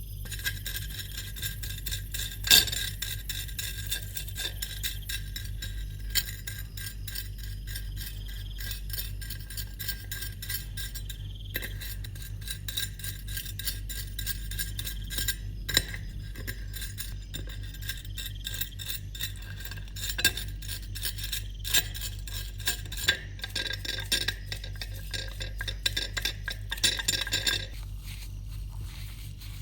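Light metal clinking and scraping, irregular sharp taps throughout over a steady low hum, the loudest clink about two and a half seconds in.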